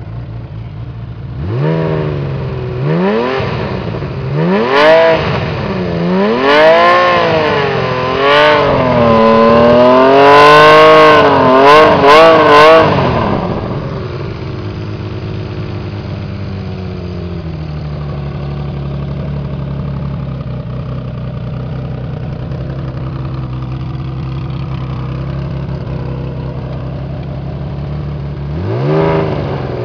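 Honda CBX 1000's inline six-cylinder engine with trumpet exhausts, revved again and again for about twelve seconds, pitch rising and falling with each blip, then dropping back to a steady idle, with one more quick rev near the end. It runs okay but is due a service after standing unused for a couple of years.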